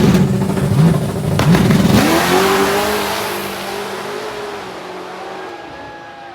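Drag-racing truck and car launching, their engines revving up through several gear changes with the pitch climbing, dropping and climbing again, then fading steadily as they pull away down the strip.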